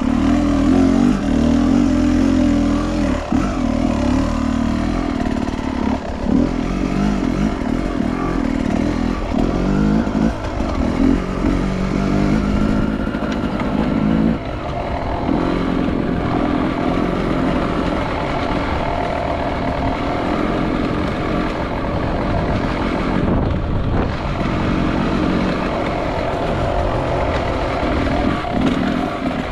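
Enduro motorcycle engine running under way, its note rising and falling with the throttle, with brief dips every few seconds.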